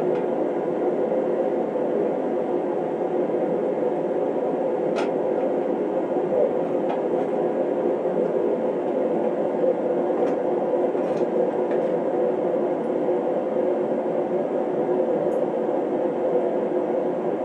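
Forced-air space heater blowing steadily, a constant whooshing drone, with a few faint light clicks over it.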